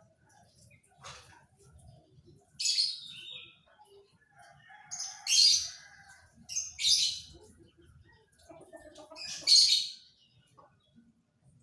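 Pied 'panda' domestic canary chirping in four short, loud, high-pitched bursts a few seconds apart, with fainter chirps between them.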